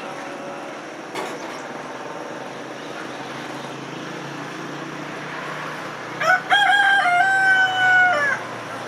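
Rooster crowing once: a few short rising notes, then one long held note that drops away at the end, over a steady background hiss.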